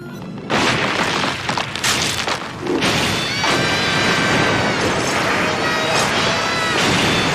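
Loud, harsh crashing noise from a cartoon sound clip that has been run through distorting audio effects. It starts about half a second in, and wavering high tones sound over it from about three seconds in.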